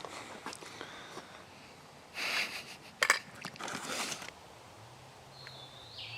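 Footsteps crunching on dry leaves and twigs on a forest trail: two bursts of crunching with a sharp snap between them about three seconds in. A brief high bird chirp comes near the end.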